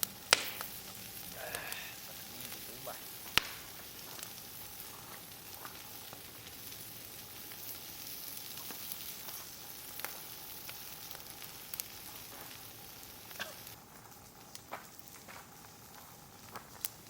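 Food sizzling on an iron griddle over a campfire, a steady hiss with scattered sharp clicks and pops. The sizzle thins out near the end.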